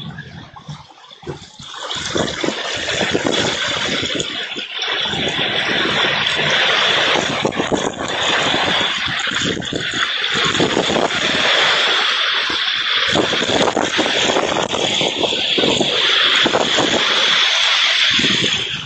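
Heavy rain pouring down, a dense hiss that swells and drops back every few seconds.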